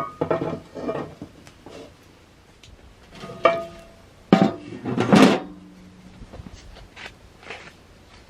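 Metal cookware clattering: a series of sharp clanks, some ringing briefly, with the loudest pair about four and a half to five seconds in.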